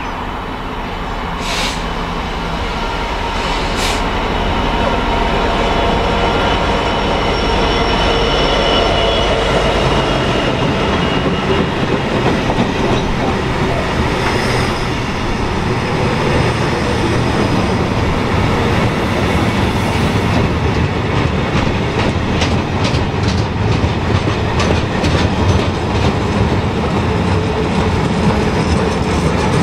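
Freightliner Class 66 diesel locomotive, with its EMD two-stroke V12 engine, passing and growing louder over the first several seconds. A long train of potash hopper wagons follows, rolling by with wheels clicking over the rail joints, the clicks coming thick and fast in the later part.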